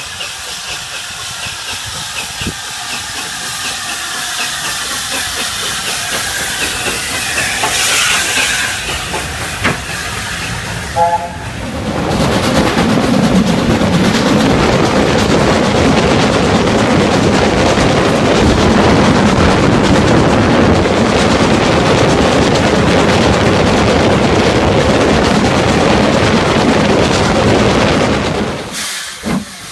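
Steam tank locomotive running, growing louder over the first ten seconds or so, with a brief tone about eleven seconds in. Then a loud, steady hiss of steam venting, which cuts off shortly before the end.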